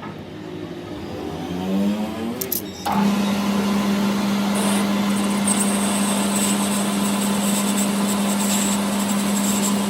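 A workshop machine's electric motor winding up in pitch over about three seconds, then a sudden jump to a loud, steady hum with a rushing noise that runs to the end.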